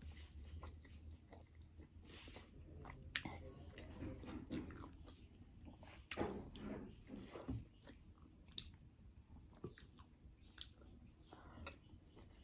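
Quiet chewing of steamed momo dumplings, with soft clicking mouth sounds throughout and a louder bite about six seconds in.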